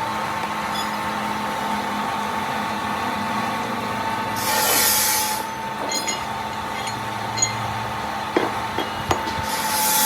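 Steady hum of workshop machinery running, broken twice by a hissing burst about a second long, with a few light knocks in the second half.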